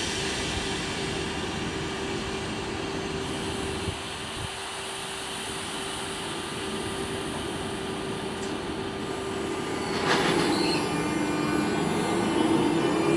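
Electric passenger trains running on the line, a steady rumble with a steady hum. About ten seconds in it grows louder, with a brief high wheel squeal and a rising whine.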